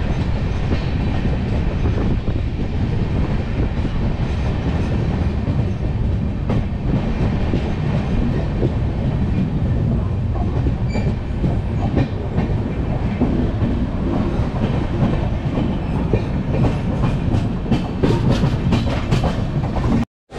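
Indian Railways passenger coach running along the track: a steady rumble of wheels on rails with a clickety-clack over the rail joints, and a quick run of sharp clicks in the last few seconds. The sound cuts off suddenly just before the end.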